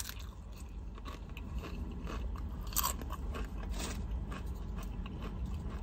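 Tortilla chip being bitten and chewed close to the microphone: a run of dry crunches, a few of them sharper, over a steady low hum.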